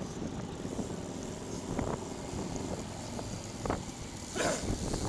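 Wind buffeting a bike-mounted camera's microphone over a steady low rumble of riding at speed, with a brief louder rush about four and a half seconds in.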